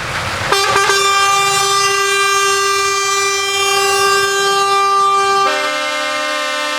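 Truck air horn blown in one long steady blast starting about half a second in. About five and a half seconds in it switches to a lower chord of several notes.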